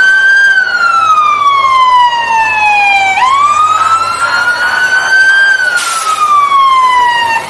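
Fire truck siren wailing loudly. Its pitch slides slowly down, sweeps back up, then falls again before it cuts off near the end. A short burst of noise comes about three-quarters of the way through.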